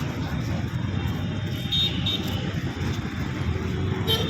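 Steady low rumble of an express train passing, mixed with road traffic, with short vehicle horn toots about two seconds in and again at the end.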